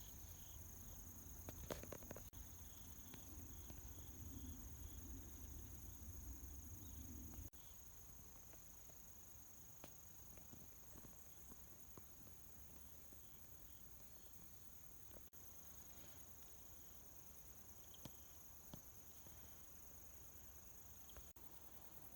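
Faint, steady high-pitched trill of autumn insects such as crickets. A low rumble underneath stops abruptly about a third of the way in.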